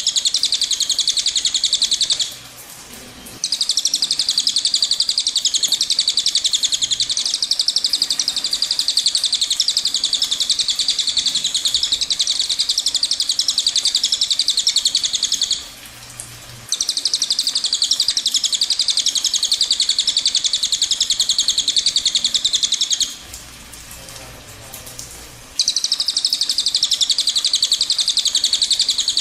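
Cililin bird singing a long, high, rapid rolling trill. The song breaks off briefly three times: about two seconds in, about halfway through, and for a longer gap of about two seconds about three-quarters of the way through.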